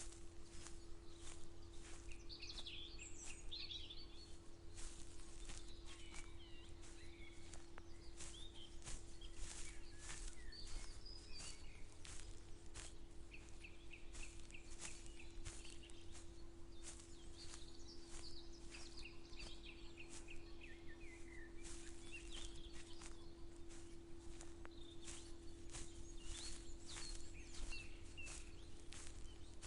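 Footsteps walking at a steady pace, several steps a second, while songbirds chirp and call on and off. A steady faint hum runs underneath.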